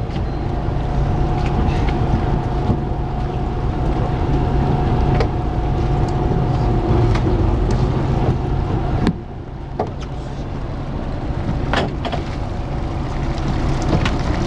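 Fishing boat's engine running steadily with a low hum, with scattered knocks and clatter aboard; the sound drops a little about nine seconds in.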